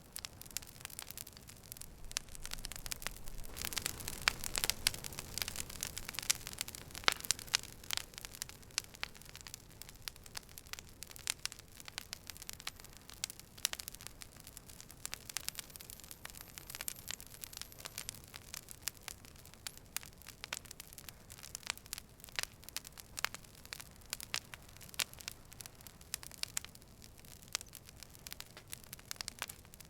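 Wood campfire crackling, with sharp pops and snaps over a steady soft hiss of the flames. The crackling is busier and louder from about three to eight seconds in, then settles to scattered pops.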